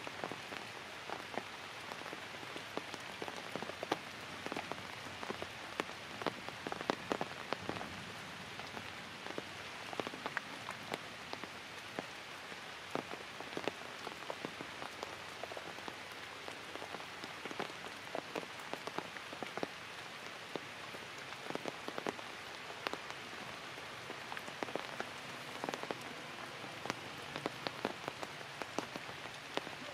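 Light rain falling on forest leaves: a steady hiss with many separate drops ticking sharply.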